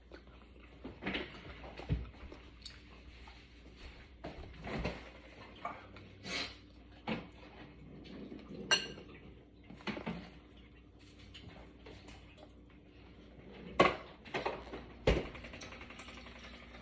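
Eating utensils clinking and knocking against a soup bowl, a dozen or so light, irregular taps spread through the stretch.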